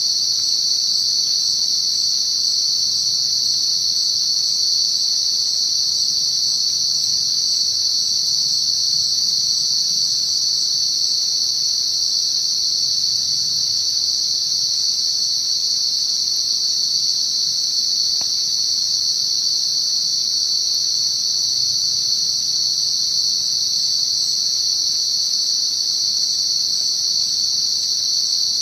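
Dense chorus of night insects, a steady high-pitched buzzing with no break or change in level.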